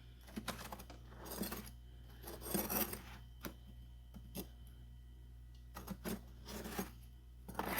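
Freezer frost and ice being handled and scraped, with scattered light clinks and scrapes at irregular moments.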